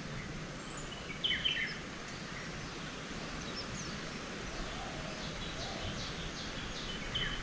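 Birds chirping over a steady hum of outdoor background noise. There is a short burst of calls about a second in, and a run of quick chirps near the end.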